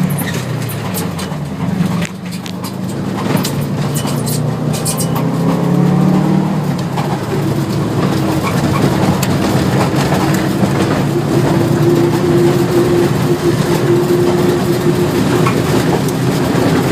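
Rally car engine running and changing pitch, with sharp clicks and rattles in the first few seconds. A steadier higher tone rises over the engine from about seven seconds in.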